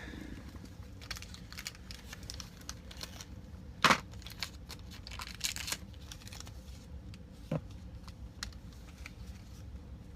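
Small plastic clicks and taps of a sixth-scale action figure's hands and accessories being handled and swapped, with one louder click about four seconds in and another sharp one near the end.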